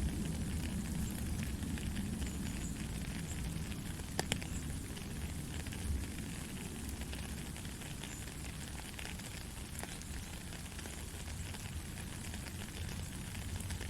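Soft rain falling steadily: an even hiss with scattered sharp drop ticks and a low rumble underneath.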